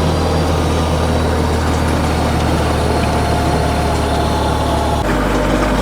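Kioti compact tractor's diesel engine running steadily under load in high gear as it pulls a drag along a gravel driveway. About five seconds in, the engine note drops suddenly to a lower pitch.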